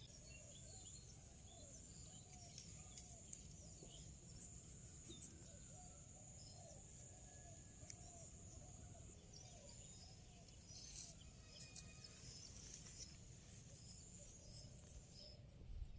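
Faint outdoor ambience: birds chirping softly and repeatedly, over a steady high insect-like drone, with a few sharp clicks.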